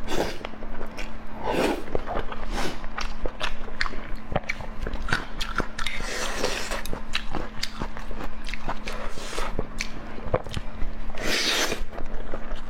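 Close-miked mukbang eating: wet chewing and biting clicks, with two longer noisy sounds about six and eleven seconds in, over a steady faint hum.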